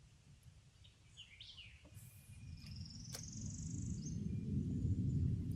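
Wild birds calling: a quick rising-and-falling chirped phrase, then a buzzy trill. Under them a low rumble builds steadily and becomes the loudest sound.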